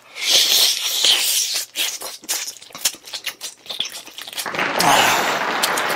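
Eating sounds up close: biting into and chewing a piece of spicy pig's trotter (bul-jokbal) with melted cheese, a run of many small smacking, sticky clicks that grows densest near the end.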